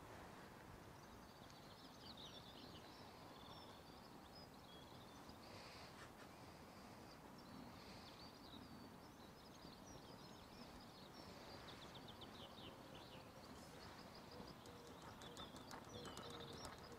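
Faint birdsong over a quiet, steady outdoor background noise: small birds chirping and trilling, with a rapid run of repeated notes near the end.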